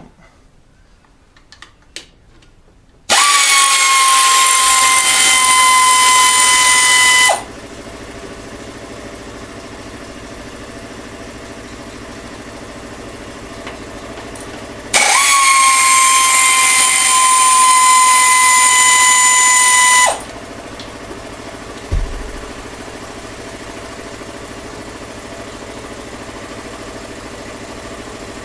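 Power tool motor spinning up fast and running at a steady high whine twice, for about four and five seconds, as bolts are undone on an engine's accessory pump. A quieter steady hum carries on between and after the runs, with a single thump near the end.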